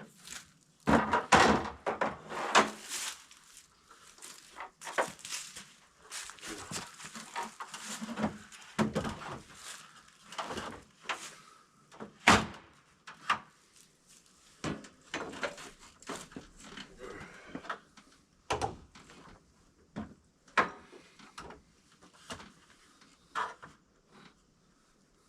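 Ladder being set up and climbed: irregular knocks, clanks and thuds, some sharp and loud, with short pauses between.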